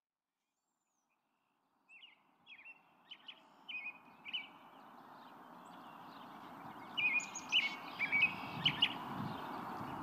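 Silence at first, then birds chirping in short calls over a steady outdoor background that fades in and grows louder; the chirps come thicker about seven seconds in.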